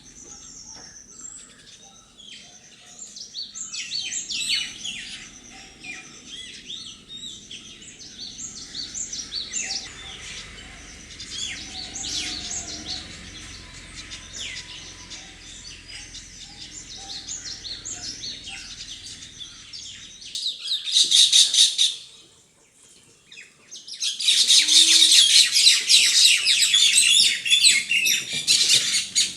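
Birds chirping and twittering in quick, high calls, with a sudden loud, dense burst of chatter about twenty seconds in, a brief lull, then loud continuous chatter through the last five seconds.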